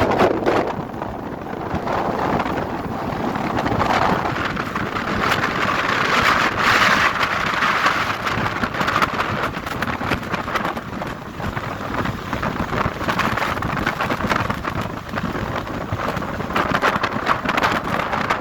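Monsoon rain pouring steadily, a dense patter with no break.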